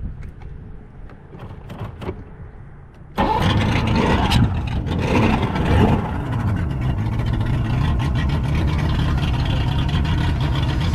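Boat engine comes up suddenly about three seconds in, revs unevenly for a couple of seconds, then runs steadily.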